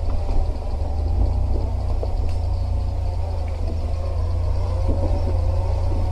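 Subaru Forester's flat-four engine running steadily under load as the car climbs a steep slope, its pitch shifting gently with the throttle.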